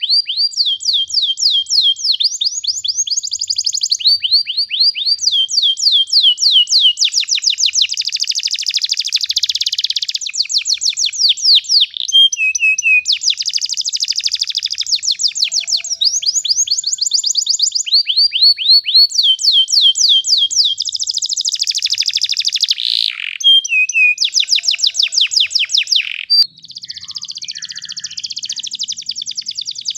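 Domestic canary singing a long rolling song: fast trills of repeated high notes, each trill giving way to a new one every second or two.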